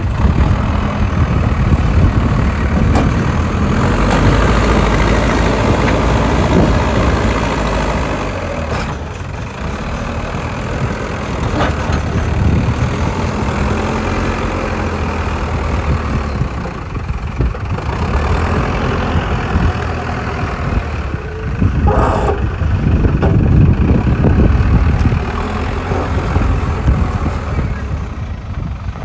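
Diesel engine of a JCB excavator running and rising and falling in load as the machine works, with one short sharp clank about three-quarters of the way through.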